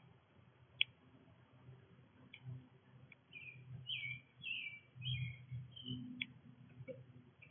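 Small songbirds chirping at a backyard feeder, a quick run of short chirps through the middle. A sharp click comes about a second in and another near the end.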